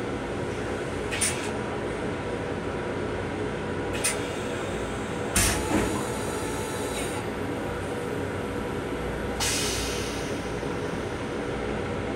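Long Island Rail Road M7 railcar heard from inside its restroom: a steady rumble and hum, broken by a few sharp knocks or rattles and, about nine seconds in, a brief hiss.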